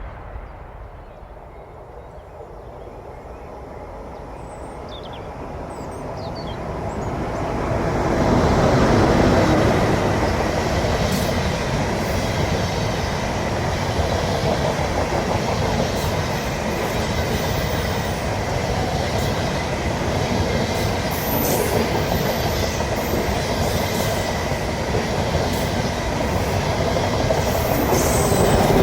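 A train approaching and passing close by: the rumble swells over the first several seconds, then runs on loud and steady, with the click of wheels over rail joints and points and a faint high wheel squeal.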